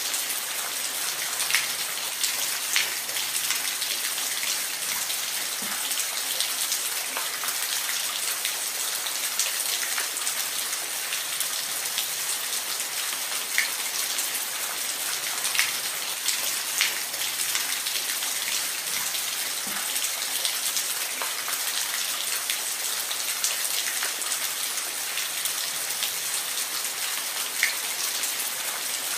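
Waterfall: a steady hiss of falling water, with sharp splashing drops cutting through every second or two.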